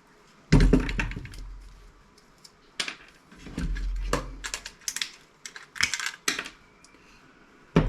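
Irregular sharp clicks and snaps of hand snippers cutting components and their leads off a CRT monitor's circuit board, with small parts being handled, the loudest snap about half a second in.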